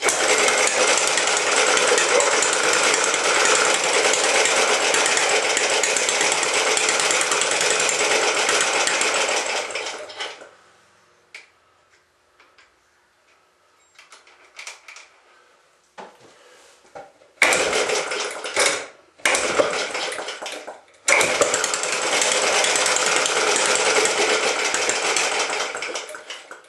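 Small antique gasoline engine running loudly and rapidly for about ten seconds, then stopping. It then catches again in two short bursts and a longer run that fades out near the end: a long-unused engine that won't keep running.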